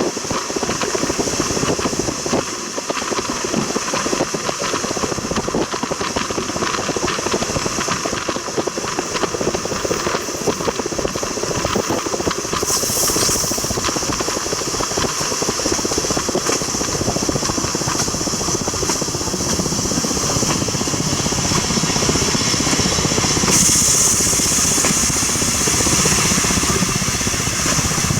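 Railway train running along the track: a steady rattle and clatter of wheels and coach. A high hiss swells briefly about halfway through and again from about two-thirds of the way on.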